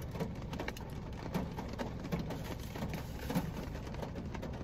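Heavy rain pattering on a car's roof and windows, heard from inside the cabin as a dense run of irregular taps, along with chewing.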